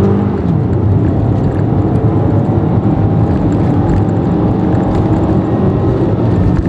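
2013 Toyota RAV4's 2.5-litre four-cylinder engine under full-throttle acceleration from a standing start through its six-speed automatic, heard from inside the cabin over tyre and road noise.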